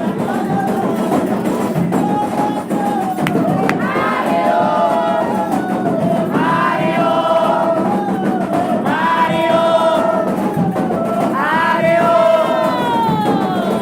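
A group of voices singing a chant together in repeated phrases over steady percussion, each phrase ending in a sliding fall in pitch.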